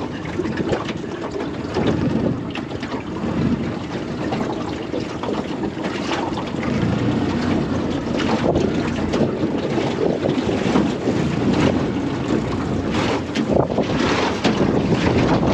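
Wind buffeting the microphone over a small boat on the water, with a few sharp knocks scattered through.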